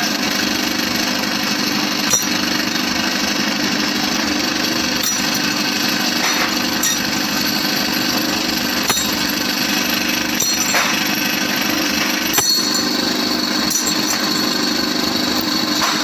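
Steady din of workshop machinery running, with a few sharp clicks or knocks at uneven intervals.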